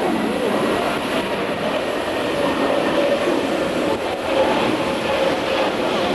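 Air Macau Airbus A320neo's Pratt & Whitney geared turbofan engines running: a steady jet engine noise with a faint constant hum through it.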